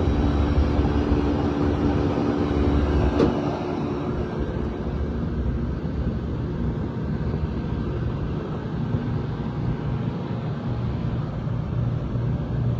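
Rooftop HVAC equipment running: a steady mechanical hum with a few steady tones. There is a short sharp knock about three seconds in, and the hum changes soon after, settling into a lower, pulsing drone near the end.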